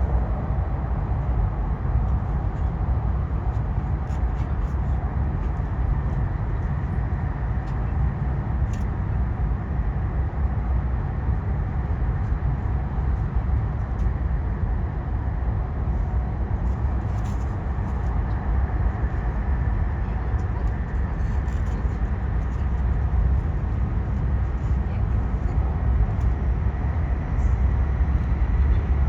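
Shinkansen passenger car at speed, heard from inside: a steady, even low rumble of wheels and running gear on the track, with a faint steady whine above it.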